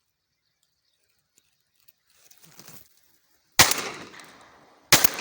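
Two shotgun shots about a second and a half apart, each a sharp crack followed by a trailing decay.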